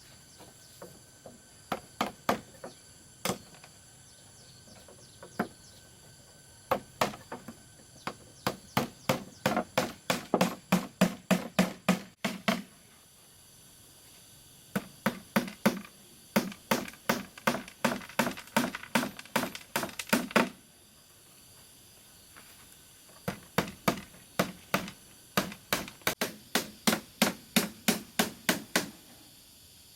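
Hammer blows on wood in three quick runs, about two to three strikes a second, with pauses between the runs.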